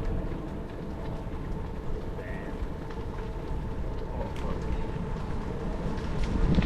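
Bicycle tyres rolling over a gravel trail: a steady crunching rumble with scattered small clicks.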